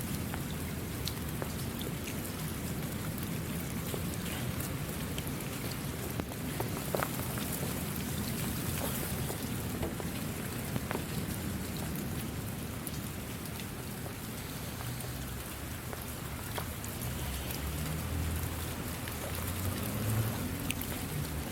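Steady rain falling, an even hiss with scattered individual drops ticking through it. A low rumble swells in the last few seconds.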